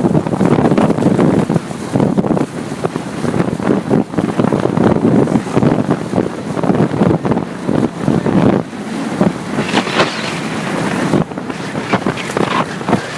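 Wind buffeting the microphone on a moving motorcycle: a loud, gusty rumble that rises and falls irregularly.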